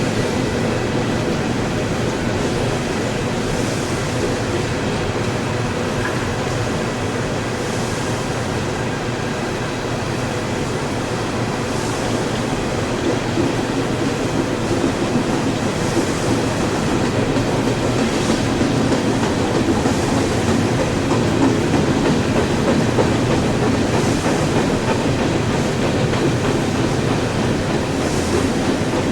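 Freight train cars rolling past: a steady rumble of steel wheels on rail, with a faint clack every few seconds as wheels cross rail joints.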